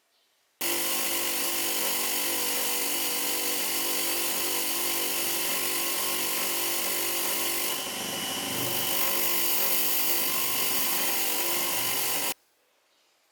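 Small electric power tool running steadily under load, likely cleaning rust off a part during restoration. The sound starts and stops abruptly and shifts a little in pitch and load about eight seconds in.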